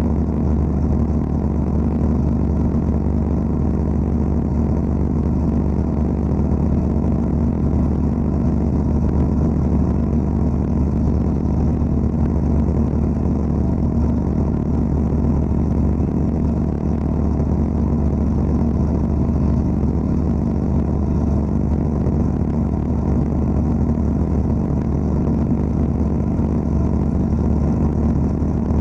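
Wet abrasive blasting equipment running steadily with an unbroken low drone and hiss, no pauses or changes.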